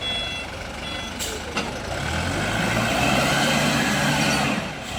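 ZL932 wheel loader working: its reversing alarm beeps during the first second, then its diesel engine runs harder and louder from about two seconds in, with a couple of sharp clicks just before.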